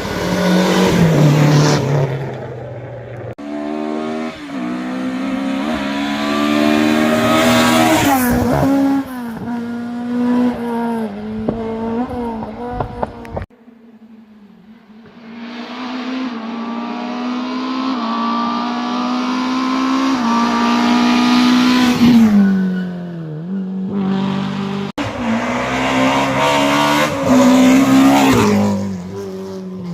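Historic rally cars driven flat out, their engines revving high and shifting up through the gears with sharp drops in pitch at each change, in several short clips one after another.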